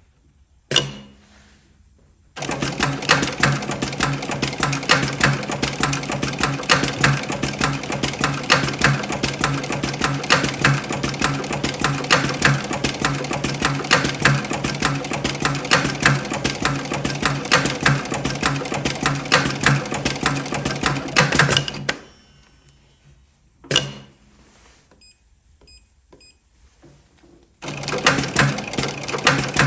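Electronic pattern post-bed double-needle sewing machine stitching a pattern at speed, a rapid, steady run of needle strokes for about twenty seconds. It stops, gives a sharp click and a few faint short beeps, then starts stitching again near the end.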